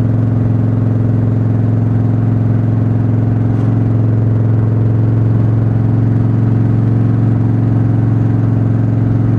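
Engine running at a steady speed, a loud, even drone that holds the same pitch throughout.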